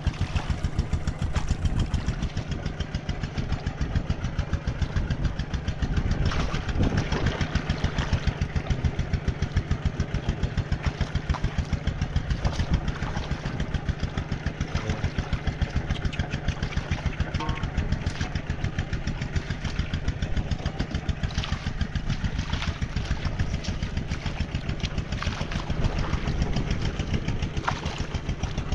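A small engine running steadily at an even, rapid putter, with a constant low hum under it.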